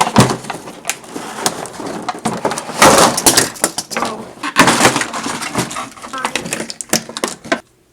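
Plastic toy vehicles and pieces clattering and knocking together as they are handled, an irregular run of clicks and rattles.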